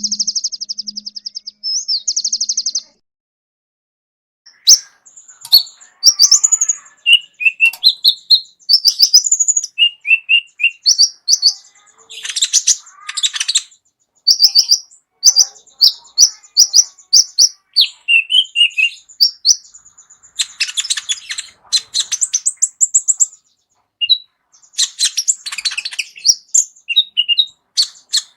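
Kolibri ninja sunbird singing a long, varied song of high, fast trills, whistled notes and buzzy phrases, its full 'isian' repertoire of song phrases. It opens with a rapid trill, pauses briefly about three seconds in, then sings almost without break.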